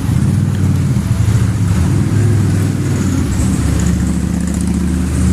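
Motor vehicle engine running close by, a low steady drone whose pitch shifts about midway, over a faint hiss of rain on the street.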